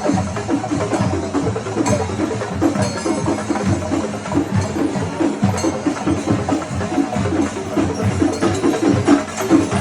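Kerala temple percussion ensemble drumming, a loud, dense run of rapid strokes.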